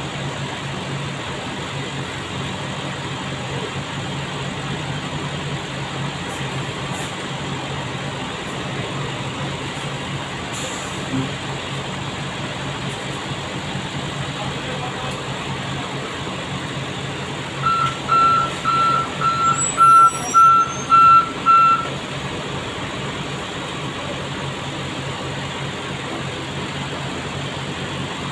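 Heavy trucks' diesel engines running steadily. About two-thirds of the way through, a reversing alarm beeps about seven times in quick succession over some four seconds.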